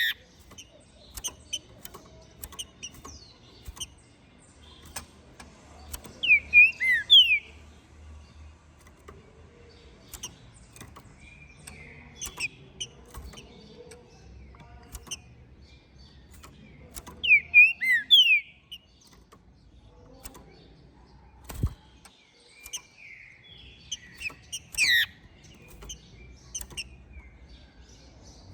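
Green-winged saltator (trinca-ferro) singing three short, loud phrases of whistled, gliding notes, spaced about ten seconds apart. Faint clicks and softer calls come between the phrases.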